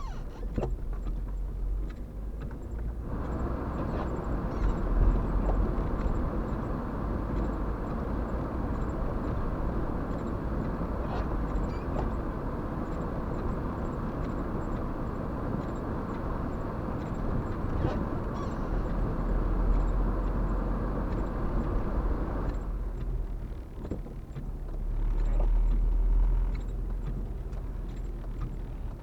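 A vehicle running, with a steady low rumble; a rushing noise joins about three seconds in and cuts off abruptly a few seconds before the end.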